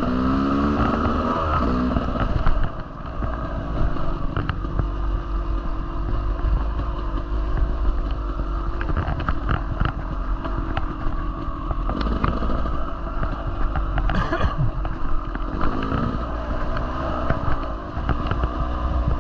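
Dirt bike engine running under load while riding a trail, its pitch rising as it revs up in the first couple of seconds and then varying with the throttle, with scattered short knocks throughout.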